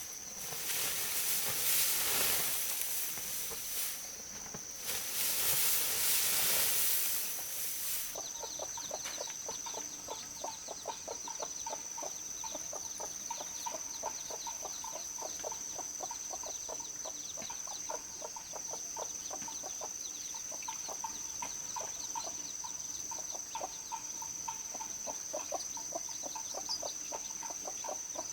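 Poultry clucking in a dense run of short, rapid calls under a steady high-pitched insect whine. Two loud bursts of hissing noise come in the first eight seconds.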